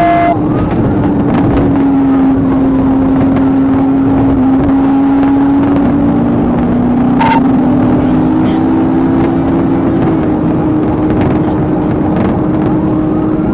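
Police car driving fast in a pursuit: a steady engine drone that shifts slightly in pitch a couple of times, over loud road and wind noise.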